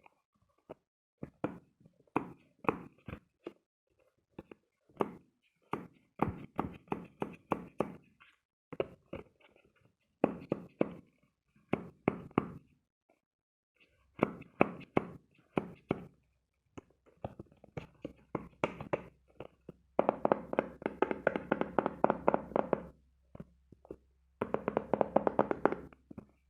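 ASMR tapping and knocking on hard objects: short clusters of light taps and knocks with brief pauses, then two runs of fast, dense tapping near the end.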